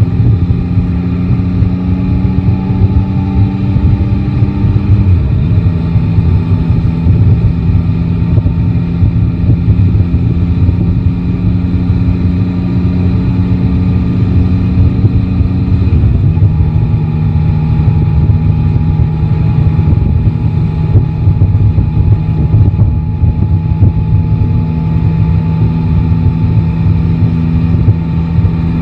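Yamaha Tracer 9 GT's three-cylinder engine running steadily during a city ride, with its note stepping down a little about five seconds in and again around sixteen seconds.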